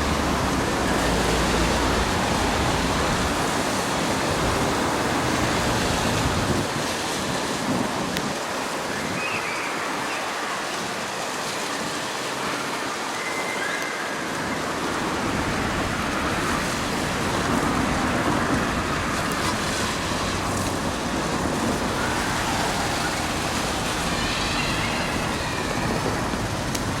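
Keihan Keishin Line train running, a steady rumble and hiss heard on board. The low rumble drops away about six seconds in and builds again in the second half.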